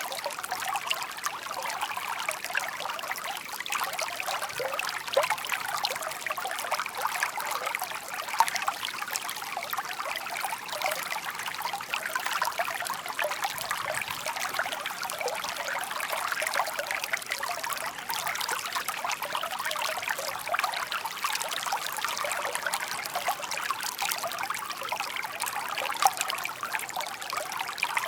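Shallow park stream trickling and burbling steadily over stones, a continuous babble of small splashes.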